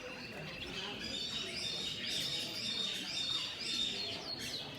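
Many small caged birds chirping and twittering together, the calls overlapping and busiest about midway, over a low murmur of people's voices.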